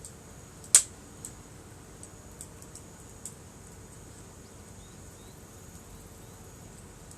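Wood campfire crackling: one sharp loud pop about a second in, then scattered smaller pops, over a steady high trill of insects.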